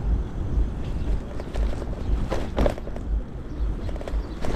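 Wind buffeting the microphone of a helmet or bike-mounted camera on a moving e-bike, a pulsing low rumble mixed with road noise. A brief louder sound stands out about halfway through.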